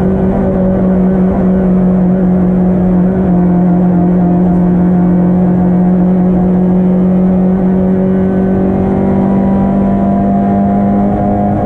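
Engine of a Yugo-based hillclimb race car, heard from inside its stripped cabin, running hard at high, nearly steady revs with small shifts in pitch.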